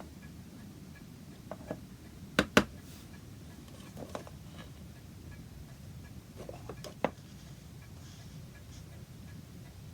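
Workbench handling sounds while pigment is mixed into polish: a few sharp clicks and light knocks of small jars and tools being picked up and set down. The loudest is a close pair about two and a half seconds in, with another single click about seven seconds in.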